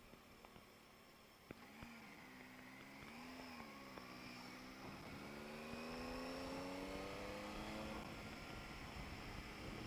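Motorcycle engine heard faintly, its pitch dipping and rising twice, then climbing steadily over a few seconds as the bike accelerates.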